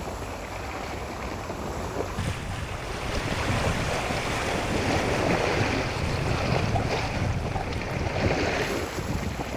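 Wind and waves at sea, with wind buffeting the microphone; the rushing noise swells in the middle and eases near the end.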